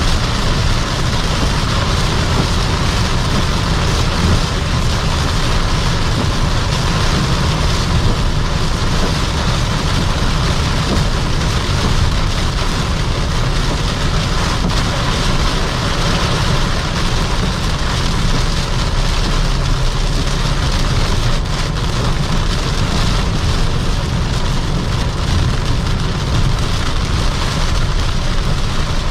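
Toyota Camry 3.5Q (GSV40) driven at high speed in heavy rain: steady tyre, road and wind noise heard from inside the cabin, with rain hitting the car.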